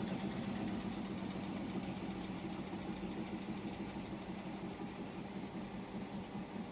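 Hotpoint washing machine running mid-cycle: a steady motor hum from the turning drum that slowly gets quieter.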